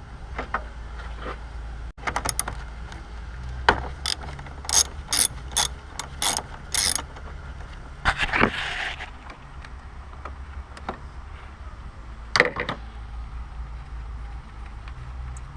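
Ratchet wrench worked in a run of short strokes, about two a second, on fasteners during engine removal, with a longer rasping stroke afterwards and a single sharp knock near the end. A steady low hum runs underneath.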